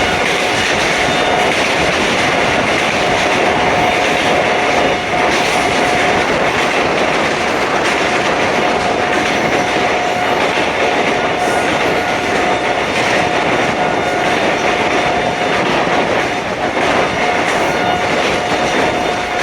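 Passenger train running at speed: a loud, steady rush of wheel and rail noise. A thin steady whine drops out briefly twice and comes back.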